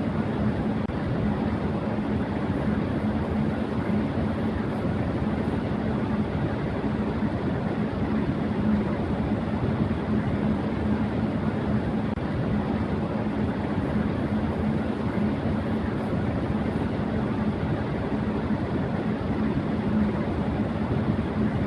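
Electric fan running at high speed: a steady rush of air with a constant low motor hum beneath it.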